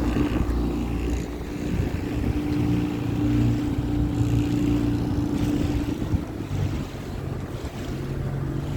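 Small hire motorboat's engine running steadily, with wind buffeting the microphone and water noise; the engine note shifts about two-thirds of the way through.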